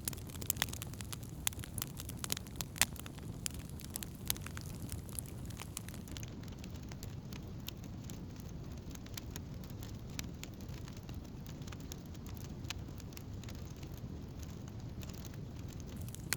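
Wood campfire burning, with sharp crackles and pops over a steady low rush of flame. The pops come thickly for the first several seconds, then thin out.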